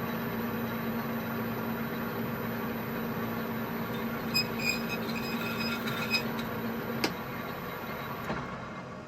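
Metal lathe running under power during a single-point internal threading pass on steel: a steady motor and gearing hum, with a few short high squeaks from the cutting tool about halfway through and a click near the end, after which the running sound dies away.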